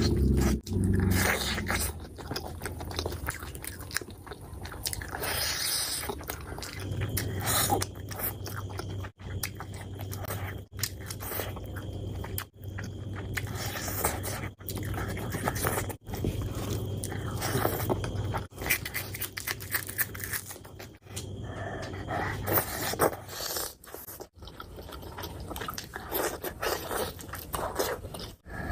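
Close-miked chewing and biting of meat curry and rice, broken by brief silent gaps where short clips are joined.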